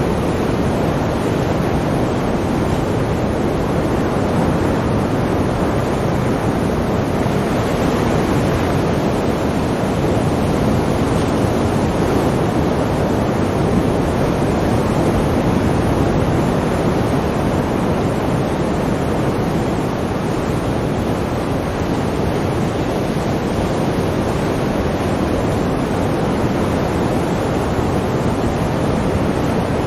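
Sea surf: a continuous rushing wash of waves, nearly even in level with only slight swells.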